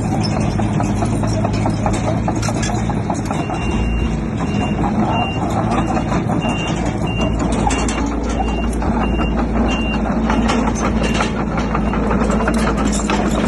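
Crawler bulldozer's diesel engine running under load, with many sharp clanks. From about 3.5 s to 10 s a reversing alarm beeps about twice a second.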